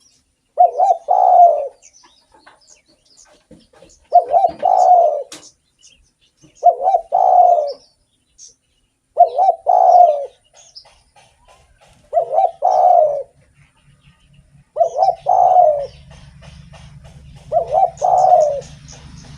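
Spotted dove (derkuku) cooing: seven multi-note coo phrases, each about a second long, repeated steadily about every two and a half seconds. Faint high chirps sound in the background, and a faint low hum comes in near the end.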